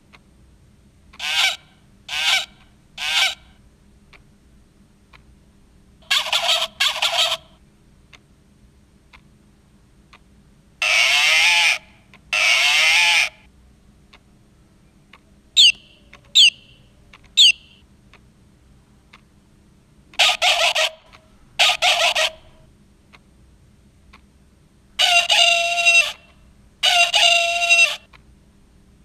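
Recorded farm animal calls played in turn from the small speaker of a farm-animal-sounds wall clock. They come in short groups of one to three calls with pauses of a few seconds between the groups.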